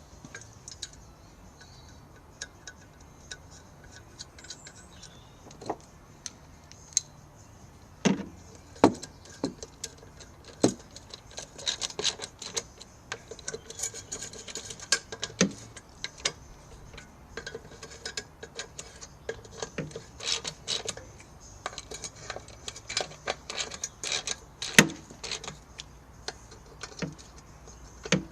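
Irregular metallic clicks, taps and clinks of hand tools and parts, busier from about eight seconds in, while a wheel is refitted on a Vespa scooter.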